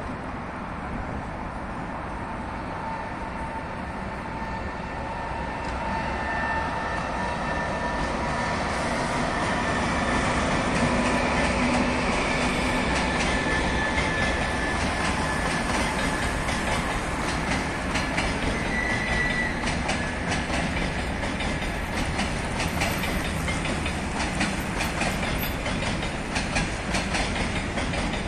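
Arriving passenger train of double-deck coaches behind an EP20 electric locomotive rolling over a railway bridge. It grows louder over the first ten seconds with a faint whine. From about halfway through the wheels clatter over rail joints, with a brief high wheel squeal.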